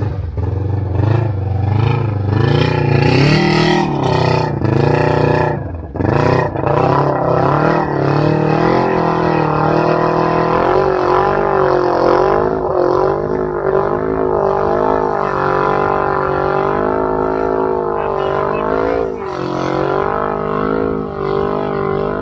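ATV engine, likely the rider's single-cylinder Honda Rubicon, revving hard under load through a mud hole, its pitch rising and falling as the throttle is worked, with quick wavering revs through the middle stretch.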